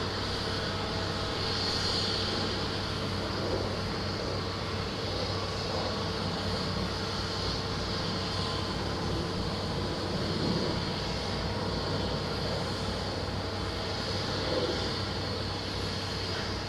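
Steady jet aircraft engine noise: an even drone with a constant low hum, a steady mid tone and a high hiss, changing little throughout.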